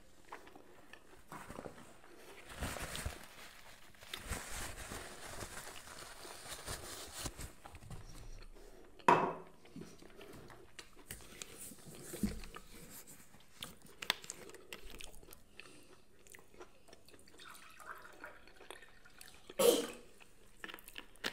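Quiet chewing and mouth sounds from a person eating. A few seconds in comes a stretch of soft paper-towel rustling. Three short, sharp louder sounds follow, the loudest near the end.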